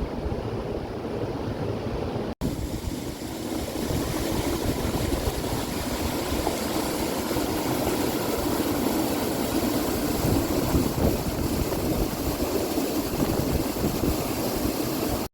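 Steady rushing of a tall waterfall, with wind buffeting the microphone. The sound cuts out for an instant about two seconds in.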